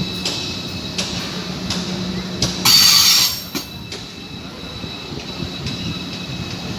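A train moving through a station, its wheels clicking over rail joints at a steady rhythm with a thin, steady squeal. A short, loud hiss about two and a half seconds in, like air being let off.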